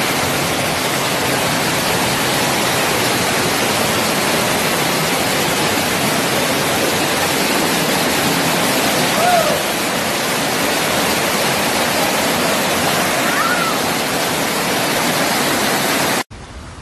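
Loud, steady rush of floodwater from a heavy downpour, with a couple of faint brief cries partway through. It cuts off suddenly near the end.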